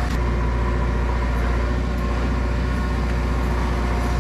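JCB 3DX backhoe loader's diesel engine running at a steady speed, a constant low hum with a few steady tones above it.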